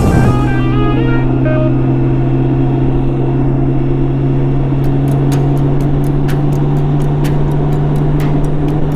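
BMW K1600B's inline-six engine running steadily, a constant low hum that neither rises nor falls. The tail of a music bed fades out about a second in.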